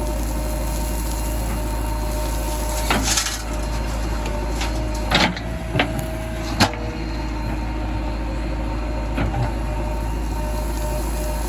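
Heavy diesel engine running steadily, with a few sharp clanks about a third of the way in and around the middle.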